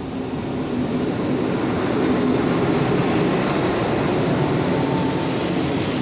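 Diesel locomotive of a Thai passenger train running past, its engine drone growing louder over the first two seconds, then the passenger coaches rolling by on the rails.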